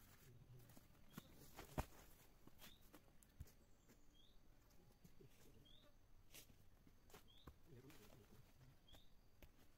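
Faint bird call, a short rising note repeated at an even pace about every one and a half seconds, with one sharp knock about two seconds in and a softer one a little later.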